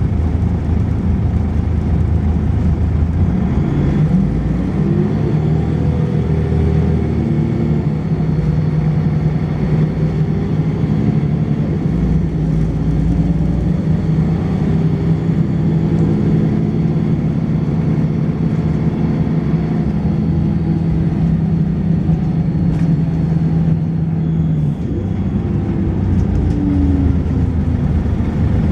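Volvo B10BLE bus diesel engine and ZF automatic gearbox heard onboard under acceleration: the engine note climbs again and again as the gearbox changes up, then eases off near the end. A faint high-pitched whine sits above the engine through most of it.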